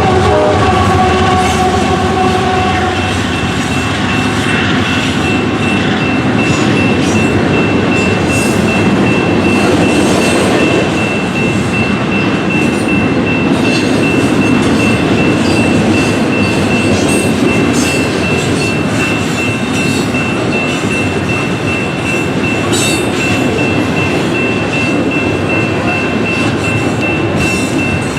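Train horn sounding and fading out about two seconds in, then the train rolling past at close range, with its wheels clattering over the rail joints and a steady high-pitched whine running under the rumble.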